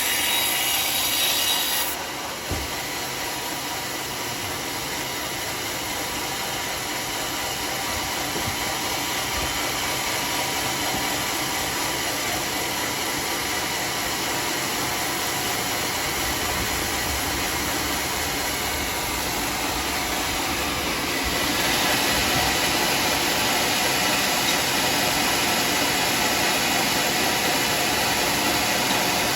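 Homemade sawmill saw cutting through a teak log, a steady loud sawing noise. It drops back a little about two seconds in and grows louder and harsher again about three-quarters of the way through.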